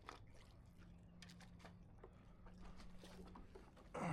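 Near silence with faint scattered ticks and clicks, then one short, louder sound falling quickly in pitch near the end.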